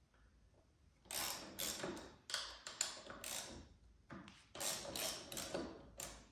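Ratchet wrench clicking in a quick run of short strokes, a few a second, as the motorcycle's front brake caliper bolts are undone. It starts about a second in, pauses briefly in the middle, then continues.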